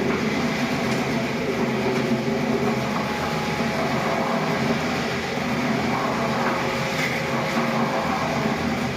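Electric floor polishing machine running steadily, its motor humming under the noise of the pad grinding over marble.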